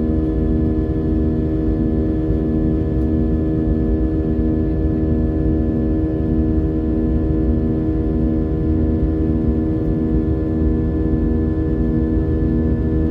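Cabin drone of an Airbus A320-232's two IAE V2500 turbofans at climb power, heard from a seat ahead of the wing: a steady hum of several tones over a low rumble, with a slow pulsing about once a second.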